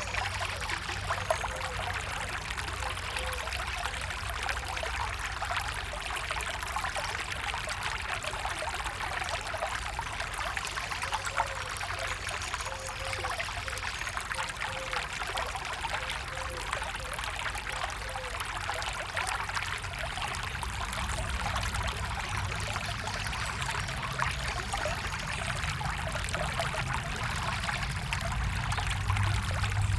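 A stream flowing and trickling steadily, with small gurgles and a low rumble underneath.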